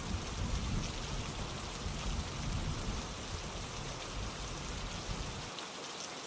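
Steady rainfall, an even hiss of rain with a low rumble underneath that drops away near the end.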